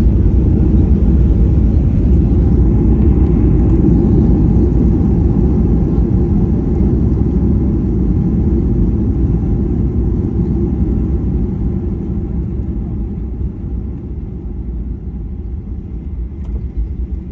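Airliner cabin noise on the ground after landing: a loud low rumble of engines and wheels that slowly dies down as the aircraft slows.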